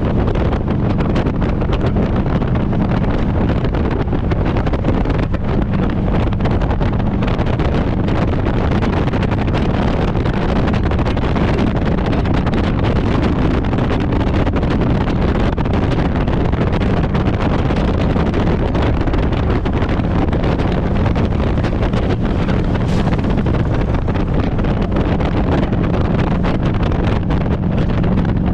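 Harley-Davidson Road Glide's V-twin engine running steadily while riding, under heavy wind rush on the microphone.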